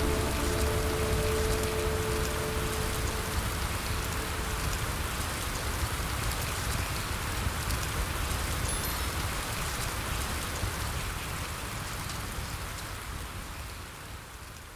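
Steady rain. A few soft, sustained music tones fade away in the first few seconds, and the whole sound fades out near the end.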